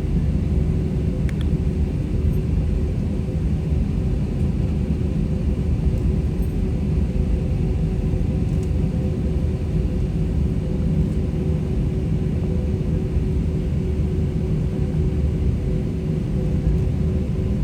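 Steady cabin rumble of an Airbus A320-200 jet airliner, with the engines' even hum and two steady tones over a deep roar of engine and airflow noise that stays unchanged throughout.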